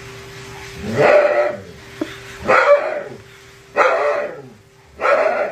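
Dog barking four times, each bark drawn out with a falling pitch, about one every second and a bit, over a faint steady hum.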